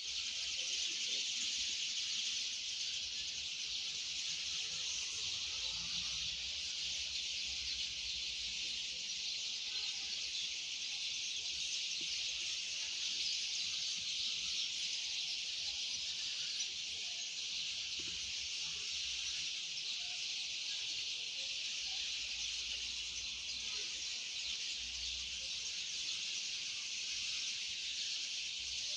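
Steady, dense high-pitched chorus of chirping insects and songbirds, unbroken throughout.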